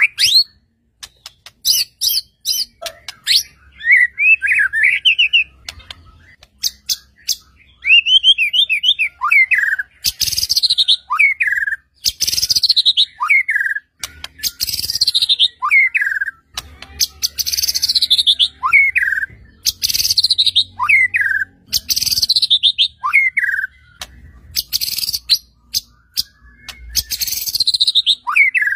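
White-rumped shama singing loudly and continuously. At first it gives varied quick warbles and sharp clicks, then from about a third of the way in it repeats one phrase about every two seconds: a fast falling sweep ending on a short lower note.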